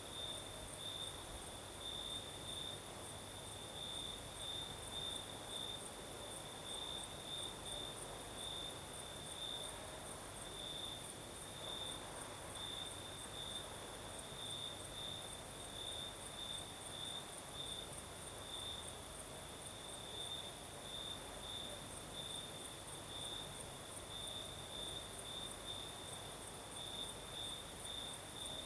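Night-time crickets chirping steadily: one sings in short repeated pulses on a single high tone, and a finer, higher-pitched insect trill runs above it.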